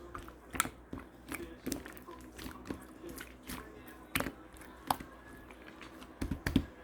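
Clear slime being pressed and stretched by hand, giving irregular sharp clicks, roughly one or two a second.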